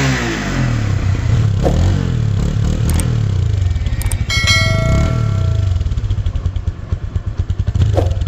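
Bajaj Discover 135 DTS-i single-cylinder engine running at idle, its revs settling just at the start; after a new timing chain and a trimmed head gasket it runs smoothly with no bad noise. About halfway through, a single metallic ding rings out and fades.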